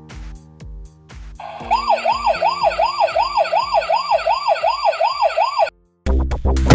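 Background music with a steady beat, joined about a second and a half in by a fast wailing siren whose pitch rises and falls nearly three times a second. Both cut off near the end, and a loud burst of noise follows.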